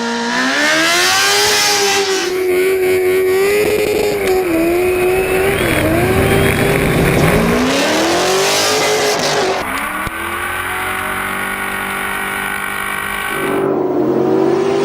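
High-revving race engine working hard while drifting: its note climbs and drops as the throttle is worked, with bursts of tire squeal and skid noise. The pitch climbs steeply twice, near the start and about halfway through.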